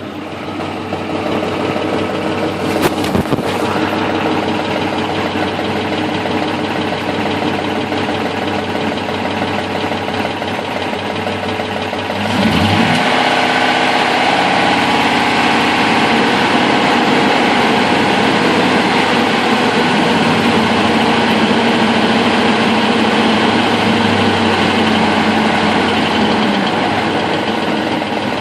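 Ford 5.4 L three-valve V8 engine running with a rattle, which the owner puts down to a loose passenger-side timing chain and possibly worn-out cam phasers. About twelve seconds in, the revs rise and are held higher, then ease back near the end.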